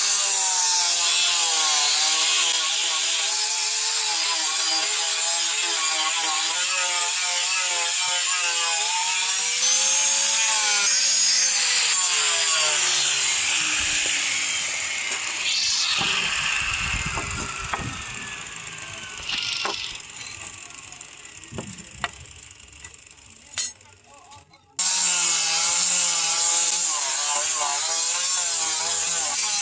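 An electric power tool working metal, its motor pitch wavering as it is loaded. About halfway through it winds down with a long falling whine and a few knocks, then cuts back in at full speed a few seconds before the end.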